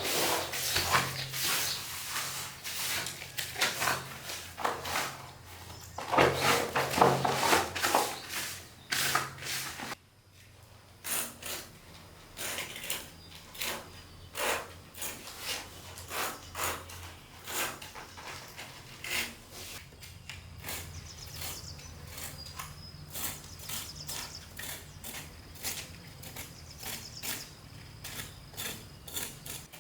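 Irregular clicks and knocks of hand work on bamboo. They come thick and loud at first, then after an abrupt cut about a third of the way in they carry on more sparsely and quietly.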